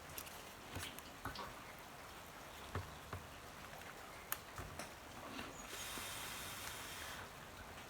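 Faint scattered clicks and taps of mains wires and small tools being handled, with a brief scraping hiss a little under six seconds in.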